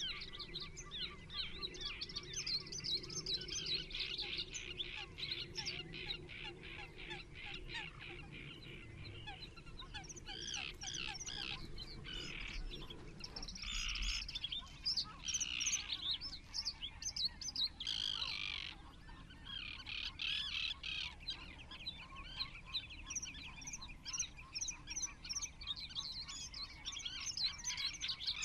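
Many small birds chirping: a dense chatter of quick, overlapping calls, with a few louder calls in the middle.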